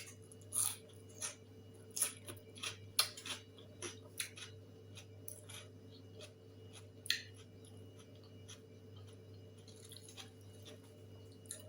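Scattered short clicks and clinks of food and utensils being handled while eating, about fifteen of them, unevenly spaced, the loudest about three seconds in. A faint steady hum runs underneath.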